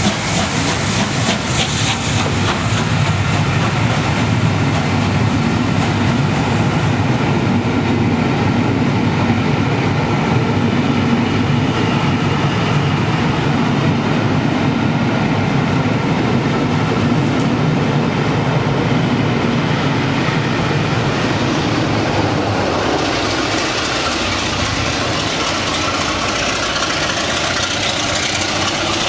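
A passenger train running past, its wheels clattering steadily along the rails. About 23 seconds in the low rumble falls away and a higher hiss with a steady engine drone takes over.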